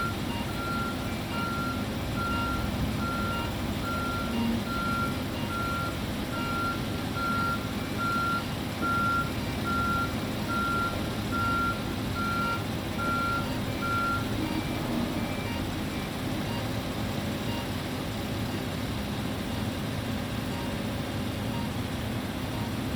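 A lorry's reversing alarm beeping steadily, about three beeps every two seconds, over the diesel engine's running; the beeping stops about two-thirds of the way through, as the lorry stops reversing, and the engine keeps running.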